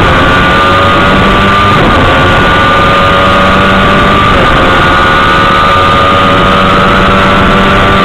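Sport motorcycle engine running at high revs, loud and steady, with two brief dips in pitch about two and four and a half seconds in as it shifts up a gear.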